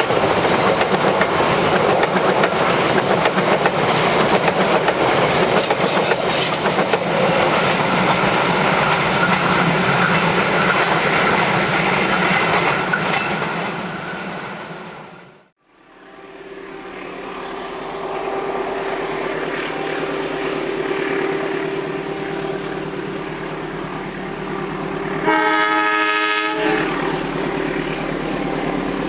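A train passing close, its wheels clacking and rumbling over the rails; the sound fades out about halfway. Then a diesel locomotive runs with a steady drone and gives one horn blast of just over a second, about two-thirds of the way in.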